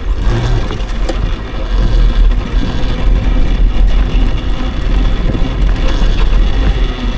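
Riding noise from an electric dirt bike: a steady, loud rumble of wind buffeting the microphone, with rattling from the moving bike.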